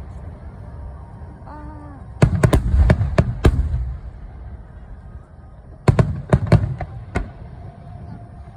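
Aerial fireworks shells bursting in two rapid volleys of sharp bangs, one about two seconds in and another about six seconds in, with low rumble and crackle between them.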